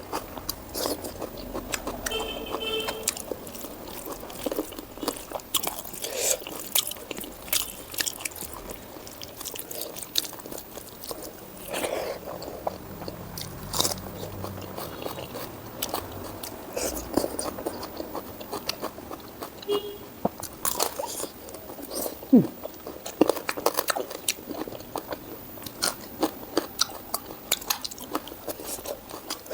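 Close-miked chewing and biting: a person eating pork and mustard greens with rice, with many short wet mouth clicks and crunches.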